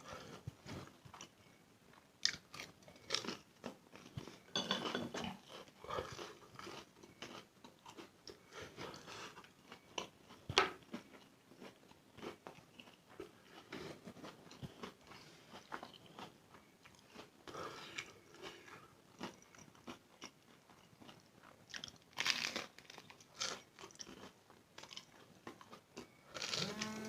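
Close-up sounds of a person eating spicy instant noodles: irregular biting and chewing, with wet mouth clicks and smacks.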